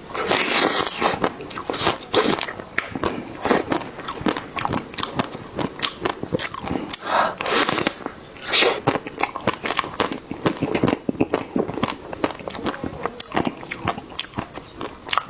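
A person eating close to the microphone, biting and chewing crunchy food with many sharp, irregular crunches and crackles.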